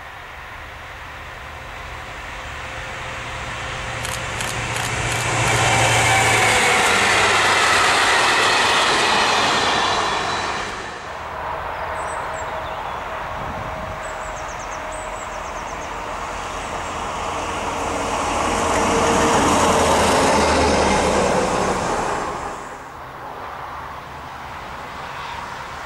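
Trains passing at speed on an electrified main line: a rush of wheel and air noise swells loud and breaks off suddenly about 11 seconds in, then a second train's rush builds and breaks off near the end, leaving the quieter sound of a TGV high-speed train approaching.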